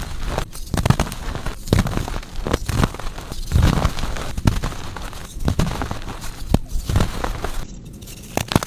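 Soft, powdery blocks of gym chalk being crushed, a crumbly crunch about once a second with crackle between.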